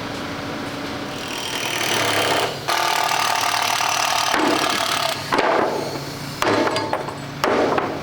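A power tool run in several bursts: one long run of about two seconds, then shorter bursts, over a steady low hum.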